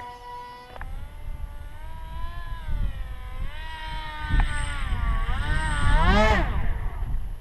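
Electric motor of a radio-controlled model airplane in flight, a whine that wavers up and down in pitch as it changes throttle and distance. About six seconds in it makes its loudest pass, with a quick rise and fall in pitch, and then stops. Wind rumbles on the microphone underneath.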